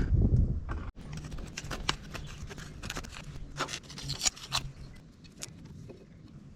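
Scattered metallic clinks and taps of hand tools and steel parts being handled, after a low rumble that cuts off abruptly about a second in.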